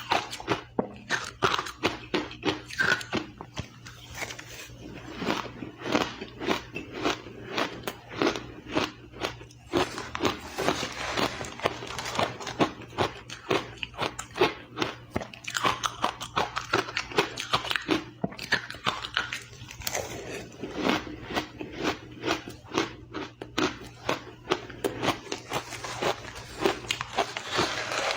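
Crushed ice being bitten and chewed close to the microphone: a rapid, irregular run of crisp crunches, several a second, with louder bites standing out.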